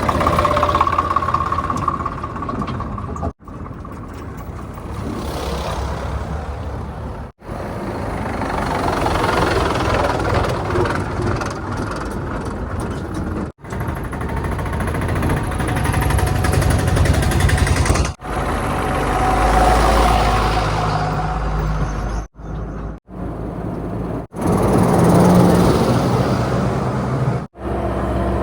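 Diesel engines of heavy vehicles such as a backhoe loader, tipper trucks and tractors running and revving, heard across a string of short clips that break off abruptly every few seconds.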